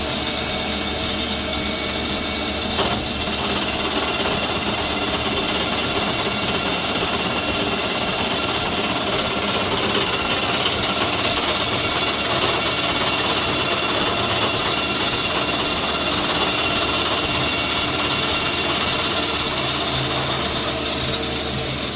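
A machine-shop cutting machine machining a hemi cut into the combustion chamber of a factory VW cylinder head. It runs steadily, with several steady whining tones over the cutting noise, and cuts off right at the end as the pass is finished.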